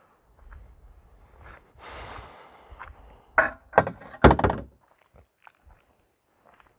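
A car door thunks shut about four seconds in, after a couple of sharper knocks and a rustle.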